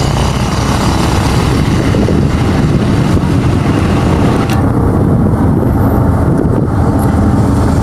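Loud, steady rumble and noise of a moving train, strongest in the low end. About halfway through the higher hiss drops away, and a couple of faint clicks come through.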